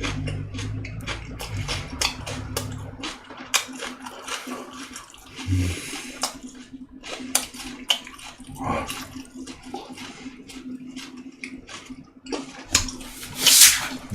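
Wet chewing and lip-smacking of a person eating a boiled pork wrap, many short clicky mouth sounds in a row, with a louder rushing burst about 13 seconds in.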